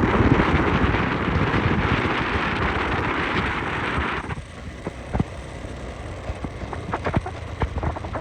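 Wind rushing over the microphone on a moving motorcycle, with the engine running underneath. About four seconds in the rush drops off sharply, leaving a quieter low rumble and a few sharp clicks.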